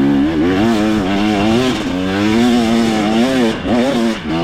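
2025 KTM 300 XC's two-stroke single-cylinder engine pulling a dirt bike up a hill, its revs rising and falling with the throttle. The revs dip briefly twice near the end.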